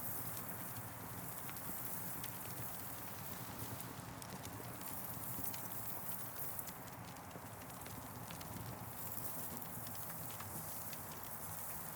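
Campfire burning, with irregular small pops and snaps of the wood over a steady even hiss.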